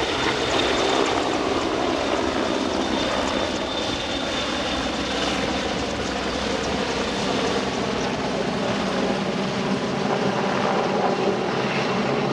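CH-149 Cormorant (AgustaWestland AW101) helicopter's rotors and three turboshaft engines running steadily close by, a dense, even noise. A faint high turbine whine sounds over it in the first few seconds.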